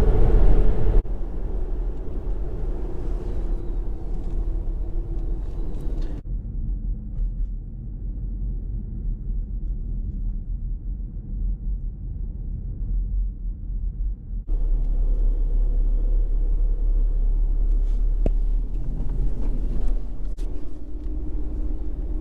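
A car driving: a steady low engine and road rumble. It changes abruptly about a second in, again about six seconds in and again at about fourteen seconds, as separate driving clips are cut together.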